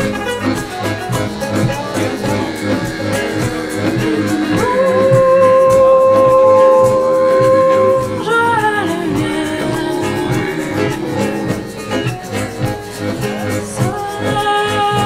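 Band music with guitar, a steady beat and singing, including one long held note about a third of the way in that slides down as it ends.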